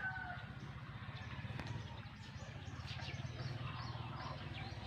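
Small birds chirping: many short, high chirps that slide down in pitch, thickest in the second half, over a steady low hum.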